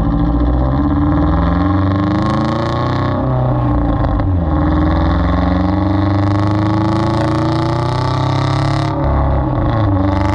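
Sports car with an Agency Power aftermarket exhaust being revved, its exhaust note rising and falling in pitch several times.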